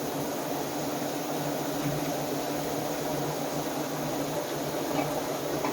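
Automatic egg-washing machine running with a steady, even hum and a constant hiss as its brushes and water wash the eggs.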